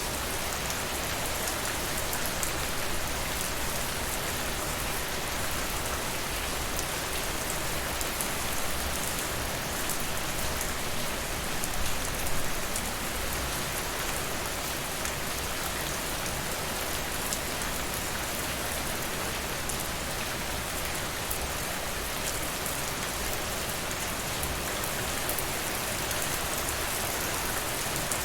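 Steady rain: an even hiss with fine scattered drop ticks, swelling briefly about twelve seconds in.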